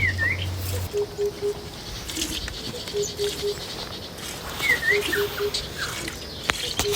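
Birds calling: a low call of three short even notes repeats about every two seconds, and a higher dipping chirp sounds twice, near the start and past the middle.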